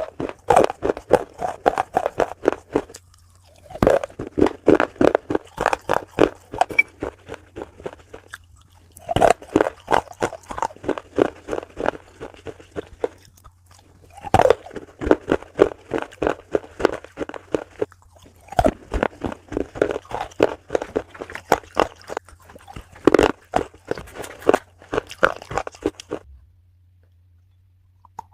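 Close-miked chewing of a crunchy food: bouts of rapid crunching, each beginning with a bite, broken by short pauses about five times, and stopping near the end.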